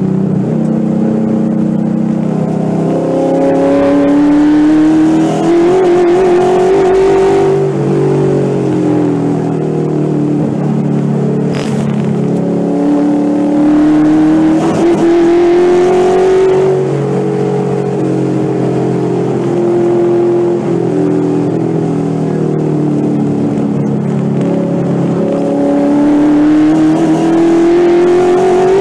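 Ford 5.0L Coyote DOHC V8 swapped into an SN95 Mustang race car, driven hard and heard from inside the car. The engine pitch climbs under throttle, drops back on lifts and shifts, and climbs again, three long pulls in all.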